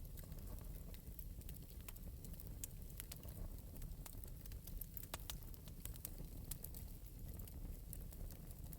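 Fire in an open metal fireplace crackling lightly: many small irregular pops and clicks over a low steady rumble.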